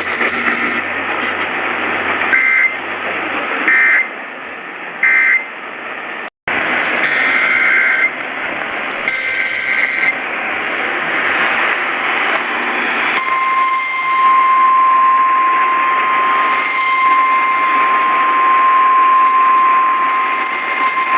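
Emergency Alert System broadcast tones over radio hiss. First come three short, harsh digital data bursts, then two longer ones a few seconds later. About 13 seconds in, a steady single-pitch alarm tone starts and holds for several seconds, the weather-radio alert tone that precedes a new warning.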